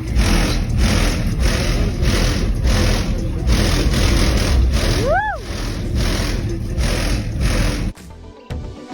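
A loud vehicle engine running, its noise pulsing about twice a second, with a short whistle that rises and falls about five seconds in. Near the end it cuts abruptly to music.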